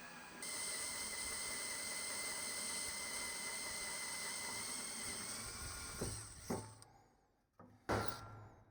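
A hand-held electric power tool starts about half a second in, runs at a steady speed with a high whine over a hiss, then spins down near the end; a few knocks follow.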